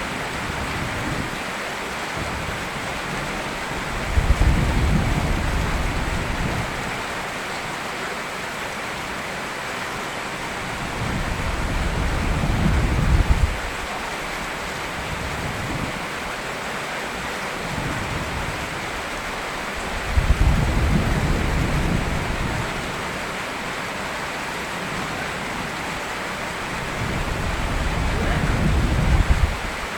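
Steady heavy rain with thunder rumbling low four times, some rumbles starting suddenly and fading, others swelling up and then breaking off.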